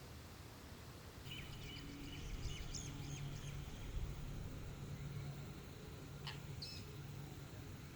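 Faint bird calls: short high chirps and a held thin note, with a low steady hum underneath from about a second in.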